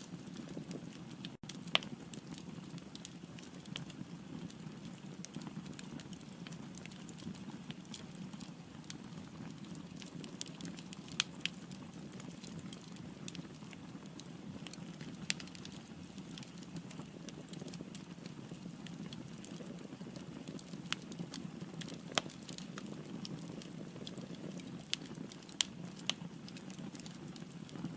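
Firewood burning in a fireplace: a steady low rush of flame with frequent irregular crackles and pops scattered throughout.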